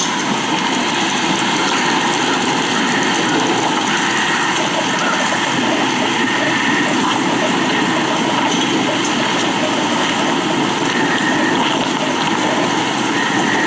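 Steady loud rushing of storm rain and wind, an even noise with no let-up.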